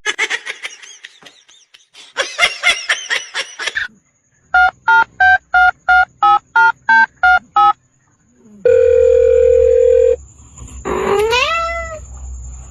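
A sequence of electronic telephone-like sounds: ten short, evenly spaced beeps like a keypad being dialled, then a steady tone lasting about a second and a half. Quick chirpy sounds come before them, and a rising glide comes near the end.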